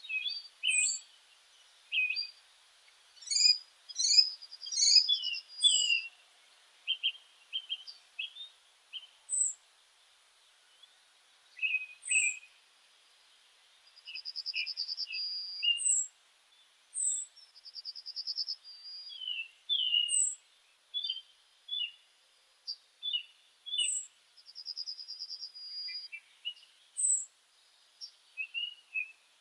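A group of pet finches calling together: many short chirps and high peeps, with a buzzy trill breaking in every few seconds.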